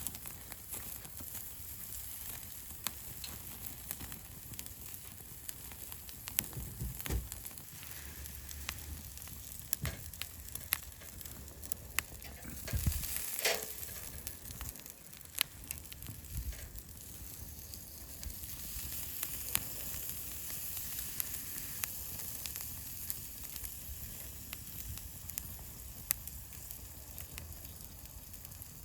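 Yakitori skewers sizzling over a wood campfire, the fire crackling with frequent sharp pops over a steady hiss. A louder burst of hissing comes about halfway through.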